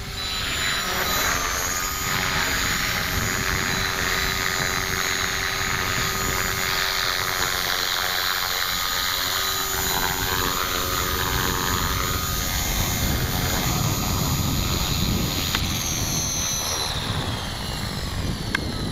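Electric 450-size RC helicopter in flight: brushless motor whine and main-rotor noise, mostly steady, with the pitch shifting in the second half and easing slightly near the end.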